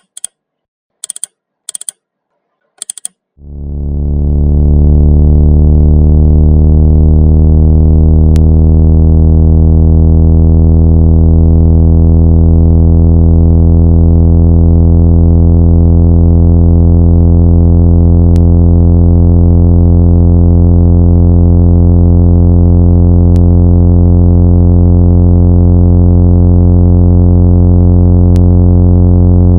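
A few short clicks, then about three seconds in a loud, steady, low buzzing tone fades in and holds. It is a speaker-cleaning tone, played to shake water and dust out of a phone speaker.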